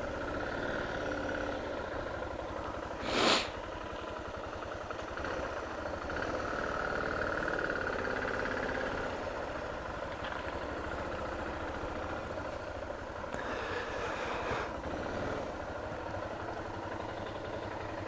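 Suzuki DR650's single-cylinder four-stroke engine running steadily as the bike is ridden. There is a short loud rush of noise about three seconds in and another, longer one around the thirteen-to-fifteen-second mark.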